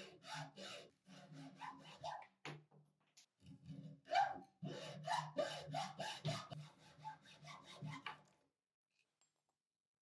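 Quick, even back-and-forth scraping strokes of a hand tool rubbing on a workpiece, about two or three a second. They stop suddenly a little over eight seconds in.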